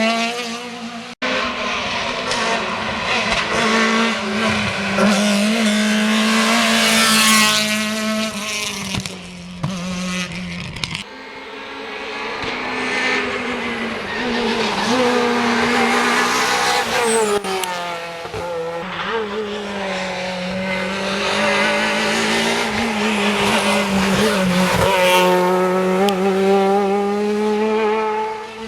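Rally cars at full effort on a special stage, in a run of separate passes: the engines rev hard and sweep up and down through the gears as each car accelerates, brakes and goes by.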